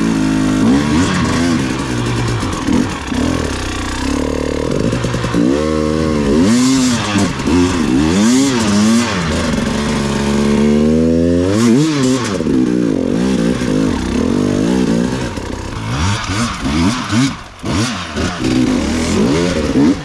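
Beta 480 four-stroke single-cylinder enduro motorcycle engine revving up and down again and again, with one long climb in revs about halfway through. It is loud, just after a fix to the bike.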